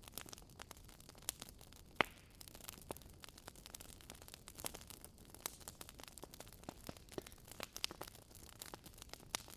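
Wood fire burning in a fireplace, crackling: irregular sharp pops and snaps over a faint hiss, with one louder pop about two seconds in.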